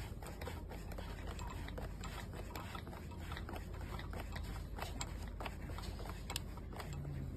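Irregular light clicks and taps of small parts being handled by hand, over a steady low hum.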